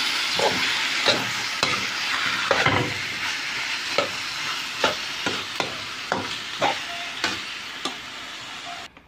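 Chicken pieces sizzling in hot oil in a wok as they are browned, while a spoon stirs them, knocking and scraping against the pan every half second or so. The sizzle stops abruptly near the end.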